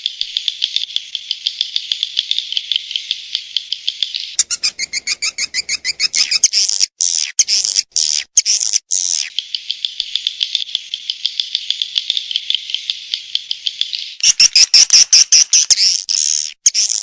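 Swiftlet lure call (suara panggil walet): fast, repeated twittering chirps of edible-nest swiftlets in quick runs of about ten pulses a second, with a few brief breaks and a louder stretch near the end. This is the recorded call played to draw swiftlets into a nesting house.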